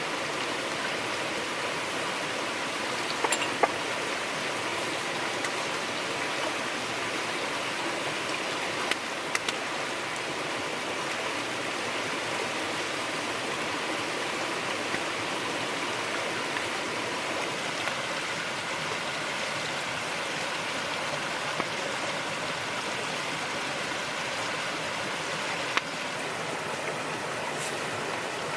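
Steady rushing water noise, with a few sharp clicks scattered through it.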